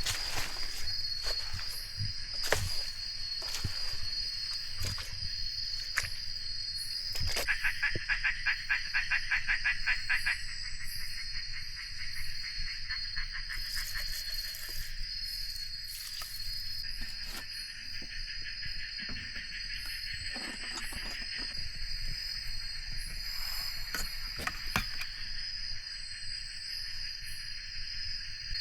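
Forest insects calling: a steady high-pitched drone throughout, with a second insect trilling in a rapid pulsed buzz from about 7 to 10 seconds in. Scattered short knocks and rustles sound over them.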